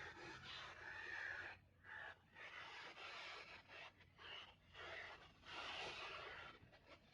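Faint hiss of sea surf, coming in short uneven surges with brief breaks.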